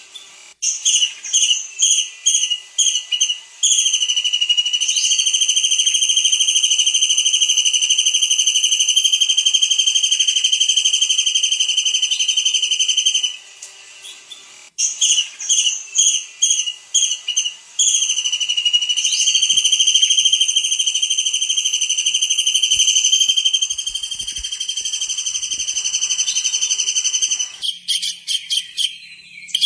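Tengkek udang (kingfisher) song: a run of short, sharp whistled notes, then a long, steady high whistle held for about ten seconds. The pattern repeats once, and a fast trill follows near the end.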